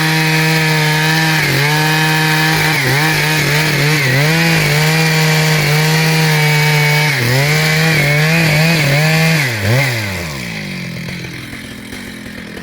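Chainsaw engine running at high speed, its pitch dropping again and again as the chain bogs into the wood and picking back up. About ten seconds in the engine note slides down and the sound falls much quieter.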